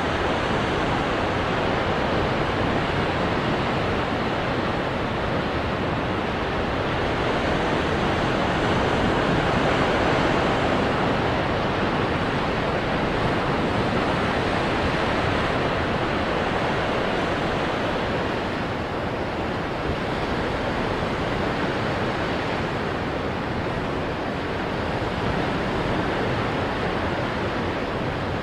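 Ocean surf breaking onto rocks: a dense, steady wash of water noise that swells to a peak around ten seconds in and eases slightly after about eighteen seconds.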